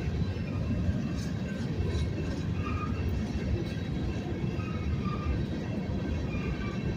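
Slow freight train rolling past with a steady low rumble of wheels on rail. A few faint, short high squeaks rise above it.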